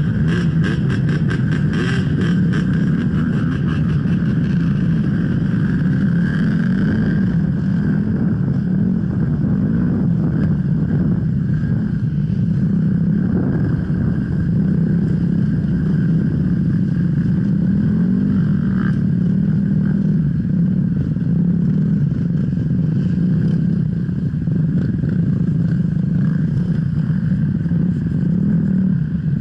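Off-road motorcycle engine running steadily, its pitch rising and falling a little with the throttle, with a rapid run of clicks in the first few seconds.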